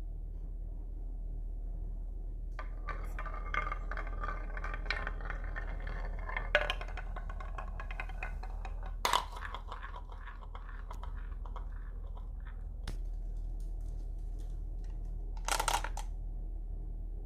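Marbles and small wooden toy vehicles rolling and clattering down a wooden marble run: a dense rattle of small clicks begins about two and a half seconds in, with a few sharper knocks and clinks, then thins out. A short sharp clatter comes near the end.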